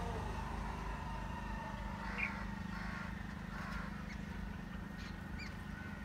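Birds calling in short, scattered chirps, the loudest a little over two seconds in, over a steady low hum.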